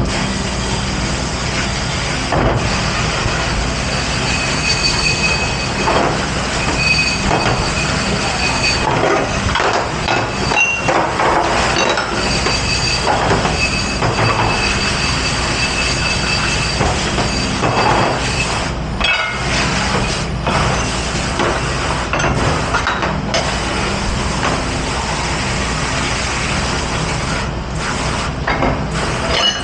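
Commercial dish pit at work: a steady machine hum under irregular clatter of dishes and metal. A thin, high squealing tone comes and goes through the first two-thirds.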